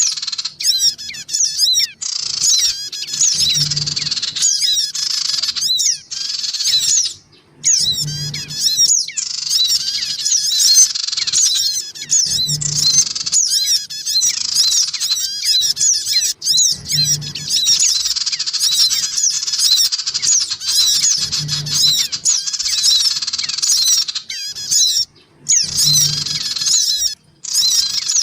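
Sogon birds calling, agitated: a dense, unbroken stream of fast, high, squeaky chirps and quick up-and-down notes from several birds at once, a recorded lure call meant to draw small birds in. A soft low thump recurs about every four and a half seconds.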